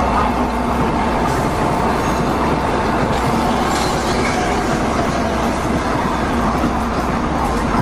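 700 Series Shinkansen high-speed train rolling past, a steady noise of wheels on rail that holds evenly throughout.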